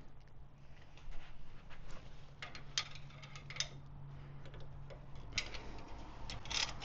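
Scattered light metallic clicks and taps of hand tools on a motorcycle's bolts, coming at irregular moments as a seized battery-box bolt is worked at, over a faint steady hum.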